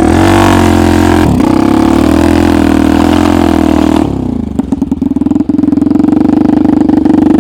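Homemade snowmobile's engine running under throttle. About four seconds in it eases off to a steadier, lower-pitched running.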